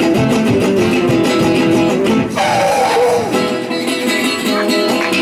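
Live acoustic string-band music: guitar strummed and picked in an instrumental break, with a note that slides downward about halfway through.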